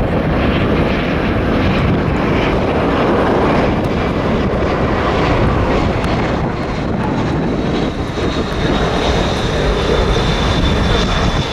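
Jet airliner engines running loud and steady as the plane passes, with a thin high whine that comes in about halfway through and grows stronger.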